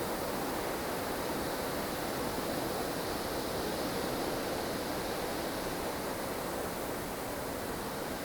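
Steady howling wind of a blustery snow storm, a dense rushing noise that swells and eases slowly.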